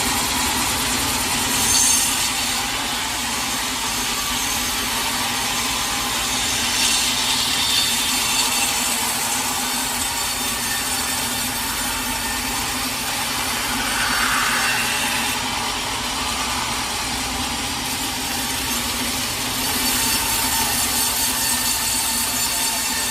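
Sawmill saw cutting through a large teak log, running steadily with the pitch and loudness swelling slightly a few times during the cut.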